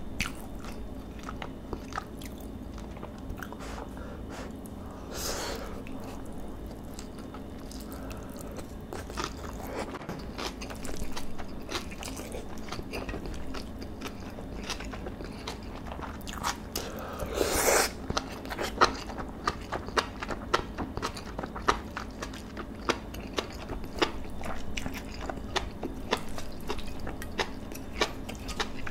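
Close-miked chewing of marinated beef bulgogi and rice, with many short wet mouth clicks. A brief louder burst of noise comes about two-thirds of the way through.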